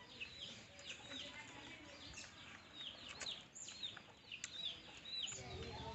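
Birds chirping: a continuous run of short, high, falling chirps, several a second. A low steady hum comes in near the end.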